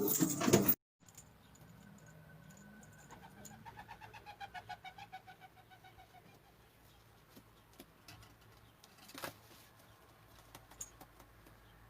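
Domestic pigeons cooing faintly in a loft, with a run of rapid pulsed calls a few seconds in and a single sharp knock near the end. A louder burst at the very start cuts off abruptly.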